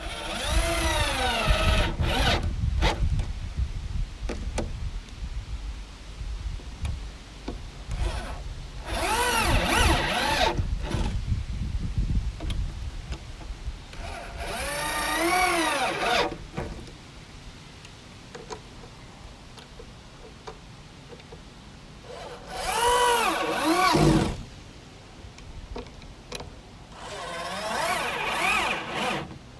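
Electric drill driving screws into wood: five separate runs of a couple of seconds each, the motor speeding up and then winding down each time.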